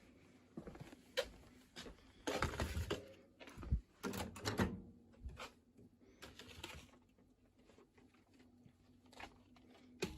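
Kitchen handling noises as food is put in a microwave to warm: scattered knocks, taps and rustles, busiest a couple of seconds in, over a faint low steady hum.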